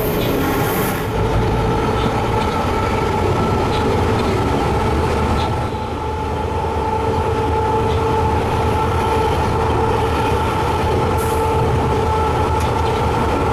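Train running: a steady mechanical drone with a low rumble underneath.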